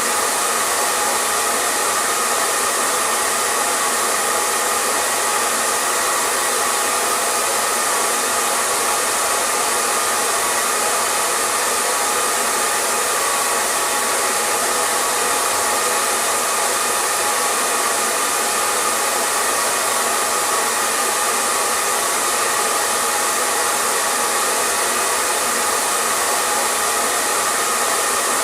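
Hair dryer running steadily, its fan and airflow making a constant even rush with a faint hum around the middle of the range.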